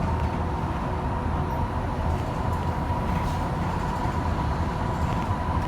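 BYD K9A battery-electric bus on the move, heard from inside the cabin: a steady low rumble and road noise with a thin electric-drive whine near the top that edges slightly higher in pitch as the bus gathers speed.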